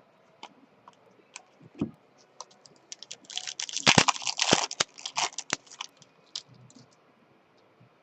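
Trading cards and foil pack wrappers being handled: scattered light clicks and taps, with a dense burst of crinkling and rustling for about two seconds in the middle.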